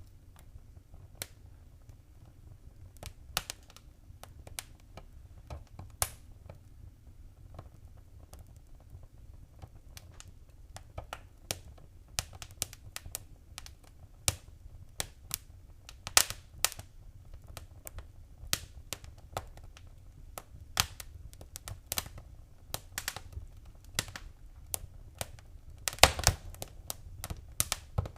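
Fireplace fire crackling: irregular sharp pops and snaps over a low steady rumble, getting busier after about ten seconds, with a quick burst of loud pops near the end.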